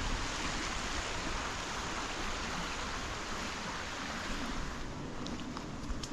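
Steady rushing noise that eases slightly about five seconds in, with a few faint ticks near the end.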